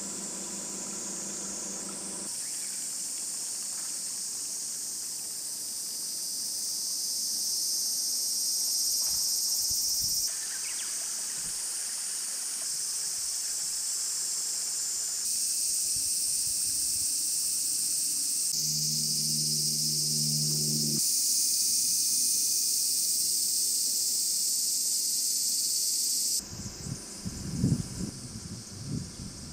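Dense high-pitched chorus of insects chirring, its character changing abruptly several times. A brief low hum comes in near the middle, and irregular low rumbles come near the end.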